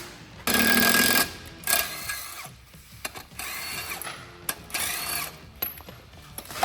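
A power tool run in several short bursts, the loudest about half a second in and near the end, with mechanical clicks and rattles between them and a sharp click at the very end.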